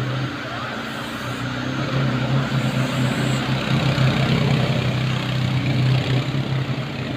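Quad bike (ATV) engine running as it rides, a steady low drone over a broad rushing noise, getting louder about a second and a half in.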